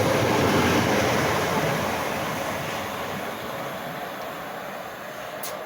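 Class 465 Networker electric multiple unit, with a Class 466 unit on the rear, running out of the station. Its rail and running noise holds for about two seconds, then fades steadily as the rear of the train draws away.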